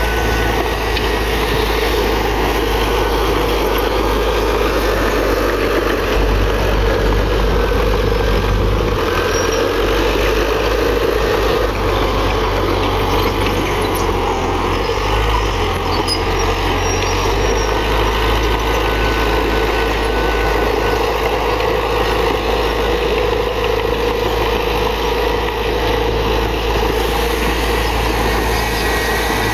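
Diesel engine of heavy earthmoving machinery running steadily, with faint whining tones over it.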